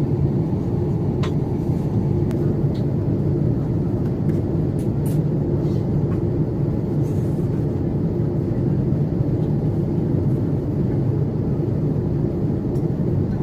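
Steady low roar of an Airbus A350's cabin in flight on approach, the engines and airflow heard from inside, with a few faint clicks.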